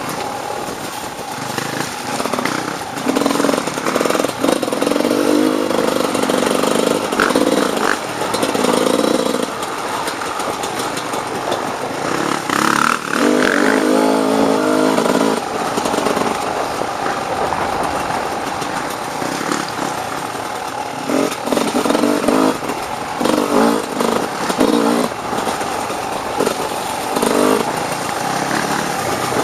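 Off-road dirt bike engine being ridden, the throttle opened and closed in repeated bursts that rise and fall in pitch, over a steady rushing noise.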